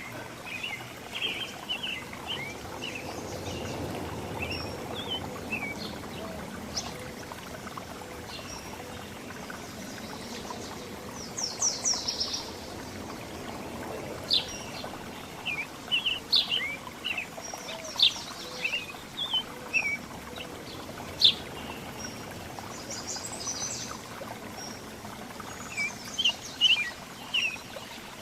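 Several small songbirds chirping and calling in short, scattered notes, with a few quick high trills around the middle and near the end, over a steady background hiss.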